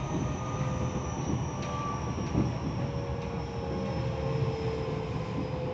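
Interior running noise of a Tokyo Metro 10000 series electric train: a steady rumble of wheels on rail, with several faint high tones that slowly glide down in pitch.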